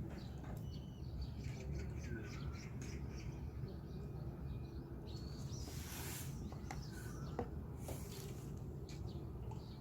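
Several small birds chirping and calling in short notes and quick glides over a steady low background rumble, with two brief rushing noises about six and eight seconds in.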